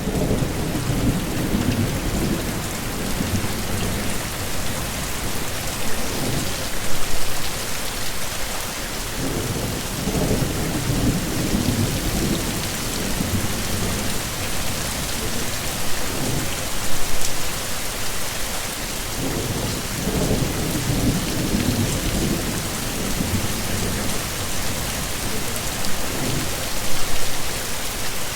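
Heavy rain falling steadily, with low rumbles of thunder that swell and fade several times.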